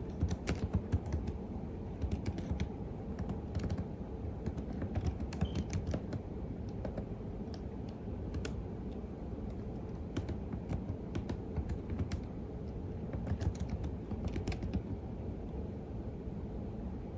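Typing on a computer keyboard: irregular runs of keystroke clicks with short pauses, thinning out near the end, over a steady low background rumble.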